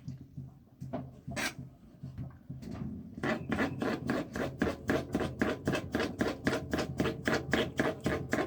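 Hand food preparation with a kitchen tool, heard as a few scattered strokes and then, about three seconds in, a fast, even run of scraping strokes of about five a second.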